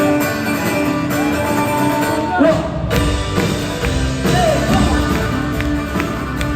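Live folk-rock band playing loud, having just launched into a song in full, with drums, held instrument notes and some singing.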